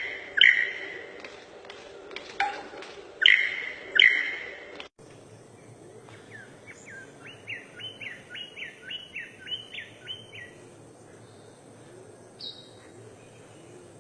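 Bird calls: a few loud calls in the first five seconds. After an abrupt change comes a fainter run of about a dozen short notes, each falling in pitch, two or three a second, and then a single note near the end.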